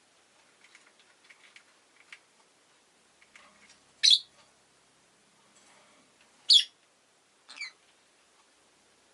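Rosy-faced lovebird giving three short, sharp chirps: two loud ones about two and a half seconds apart, then a fainter one a second later. Faint clicks come before them.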